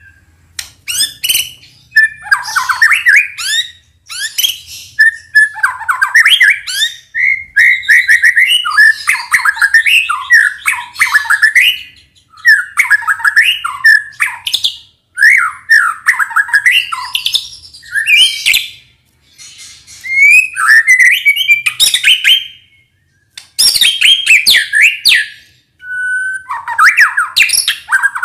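White-rumped shama (murai batu) singing loudly: fast, varied phrases of whistles mixed with sharp chattering notes, in bursts of a few seconds separated by short pauses.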